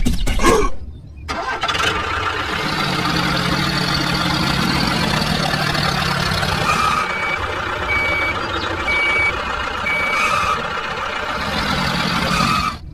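Engine running steadily, with a reversing alarm beeping about once a second for a few beats in the middle.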